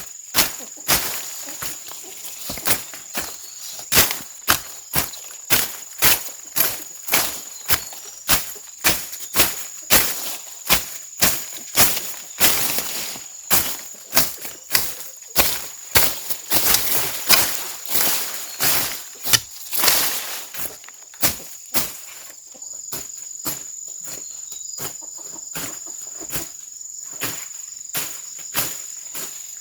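A hand tool chopping into soil in a steady rhythm, about one and a half strokes a second; the strokes grow lighter after about twenty seconds. Insects keep up a steady high drone throughout.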